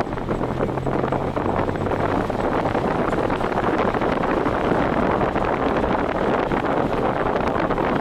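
Wind rushing over the microphone of a camera on a moving vehicle at speed, with road and engine noise beneath. A low hum fades out about two to three seconds in.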